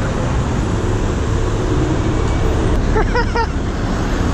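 Steady rumble of city street traffic heard from a moving BMX bike, with a brief high-pitched wavering chirp about three seconds in.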